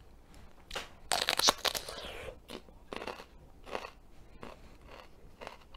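A crisp, crunchy bite into a raw red pepper about a second in, the loudest sound, then steady crunchy chewing.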